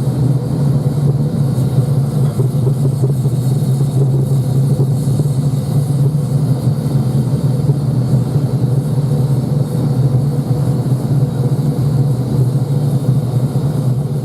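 Home-made oil-fired foundry furnace, burning a mixed oil, diesel and petrol fuel, running with a loud, steady, low rumble.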